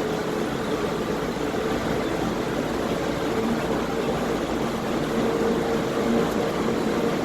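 Inside the car of an automated underground airport people-mover train running between stations: a steady rumbling ride noise with a faint, level hum running through it.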